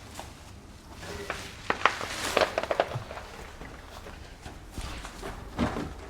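Light clicks and knocks of small parts being handled, bunched together about two seconds in with a brief rustle, then a few scattered knocks.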